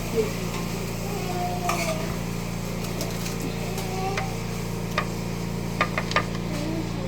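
A few light clicks and knocks of kitchen utensils over a steady low hum.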